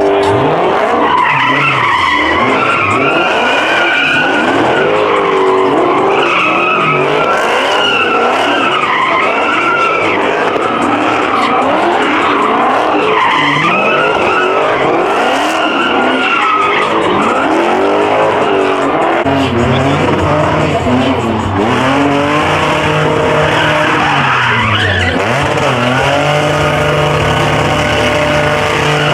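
Muscle car engines revving hard with tyres squealing and skidding, as cars do burnouts and donuts in a pit. The engine pitch rises and falls again and again, then settles into a steadier, lower note near the end.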